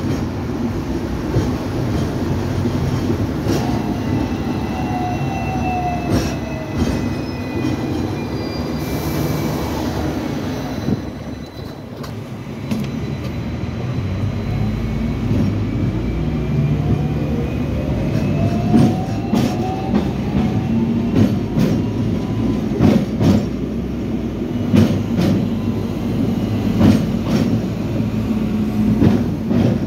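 Hong Kong tram running, its wheels knocking over rail joints with frequent sharp clicks over a steady rumble. The electric motor's whine falls in pitch as the tram slows, the sound eases briefly about twelve seconds in, and the whine rises again as it pulls away.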